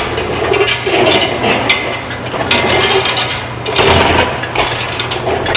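Hand tools working on metal engine parts: irregular clinks, knocks and scraping as a wrench works the alternator mounting loose, over a steady low hum.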